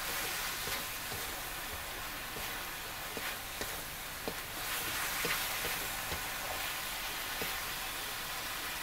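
Beef slices frying in thick black pepper sauce in a metal wok, stirred and spread with a spatula: a steady sizzling hiss with scattered light clicks and scrapes of the spatula against the wok.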